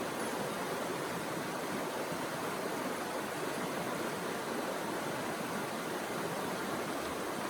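Steady, even rush of running water, with no breaks or distinct events.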